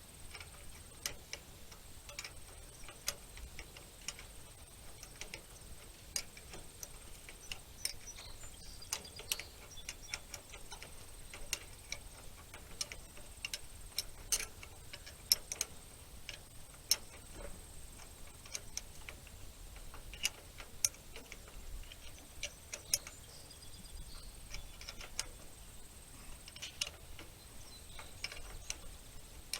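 Irregular light clicks and clinks of hand tools and small metal parts being worked on a hay rake, over a faint steady high tone.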